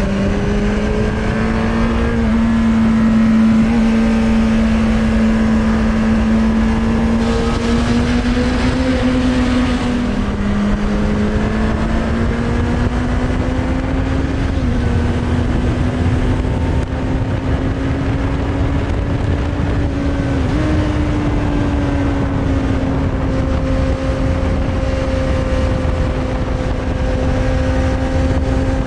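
Suzuki Bandit 600's inline-four engine through a Hashiru aftermarket exhaust, running at steady road speed, heard from on the bike. Its pitch creeps slowly upward, dips about ten seconds in, and steps up a couple of times later, over a low rush of wind.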